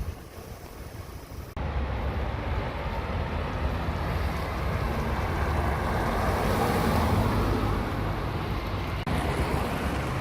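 Mazda 6 MPS on the move: steady road and wind noise with a low rumble, buffeting the microphone. The sound changes abruptly about a second and a half in and again near the end.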